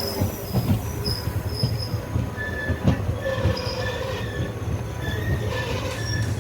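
Passenger train running on the rails: a steady low rumble, with the wheels squealing in short, repeated high-pitched tones and a few knocks.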